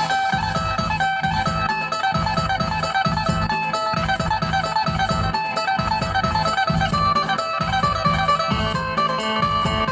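Isan phin (Thai plucked lute) music: quick plucked melody notes over a steady low beat.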